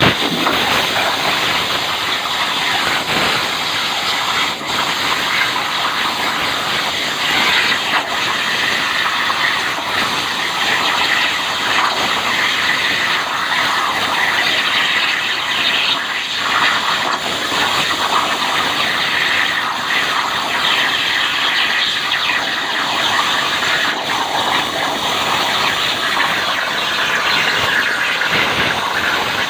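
CNC plasma cutter torch cutting steel: a loud, steady hissing screech with a high edge, starting abruptly.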